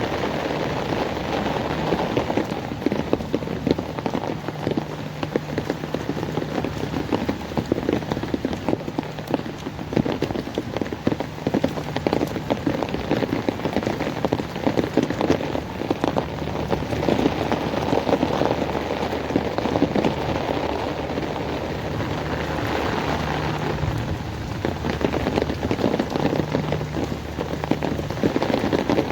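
Steady heavy rain falling on hard surfaces: a dense, even rush of countless drops. A low steady hum runs underneath and comes and goes.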